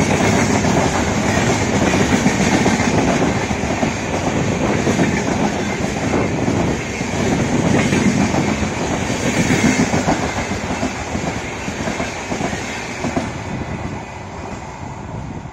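Passenger train coaches rolling past close by at speed, their wheels clattering over the rail joints in a continuous clickety-clack with a rushing roar. The sound fades near the end as the last coach pulls away.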